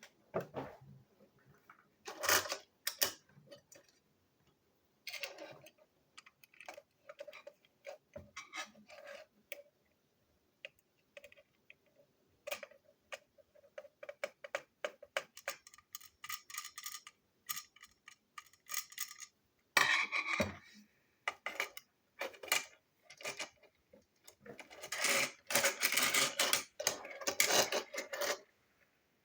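Plastic toy train parts being handled and fitted together: scattered clicks, knocks and rattles, with a dense clatter about twenty seconds in and a longer run of clattering near the end.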